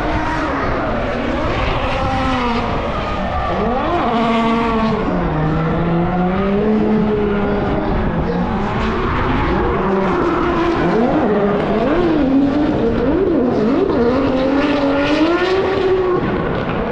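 Car engines on a race circuit revving up and down again and again, several overlapping, over a steady rush of engine and tyre noise.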